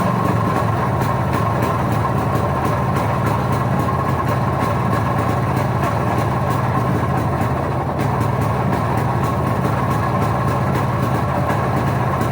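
IZH Planeta 5 Orion motorcycle's single-cylinder two-stroke engine idling steadily.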